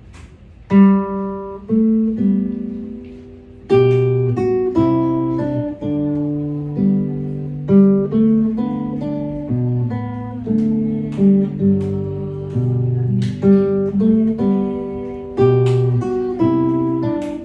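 Solo acoustic guitar playing a slow, fingerpicked melody over bass notes, each note plucked and left to ring.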